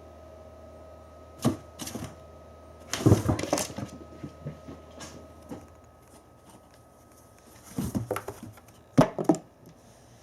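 Cardboard box knocked, scraped and rustled as a Norwegian Forest Cat jumps in and out of it: clusters of sharp knocks and scratching, the busiest run about three seconds in and two loud knocks near the nine-second mark.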